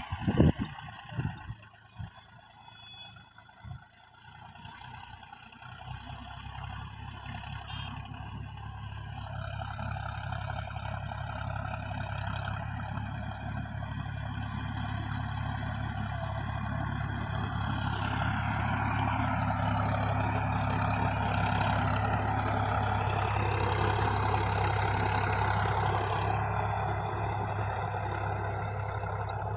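Tractor diesel engine running steadily and growing louder over about twenty seconds, after a few thumps in the first few seconds.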